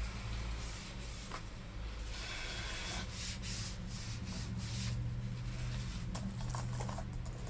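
Laptop keyboard being scrubbed with contact cleaner: a run of short, hissy rubbing strokes over the keys, with a steady low hum underneath.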